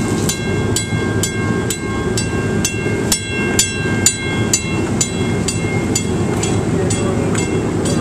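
Train rolling past with a steady rumble and a regular clack of wheels over rail joints about twice a second, plus a high wheel squeal that stops about halfway through.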